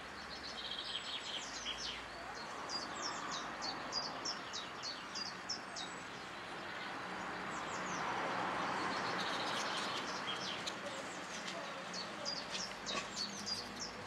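A small songbird singing in runs of short, high, falling chirps, over a steady outdoor background hiss that swells in the middle.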